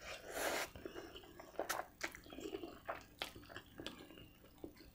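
Close-up eating sounds from a mouthful of spaghetti: a short slurp as the forkful goes in, then quiet wet chewing with small clicks and smacks.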